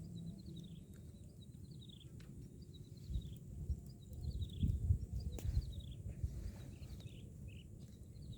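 Birds chirping, many short high falling calls repeated throughout, over a low rumble that swells in the middle.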